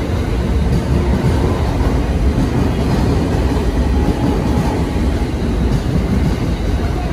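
E217 series electric commuter train running past along the platform: a steady rumble of its wheels and running gear on the rails.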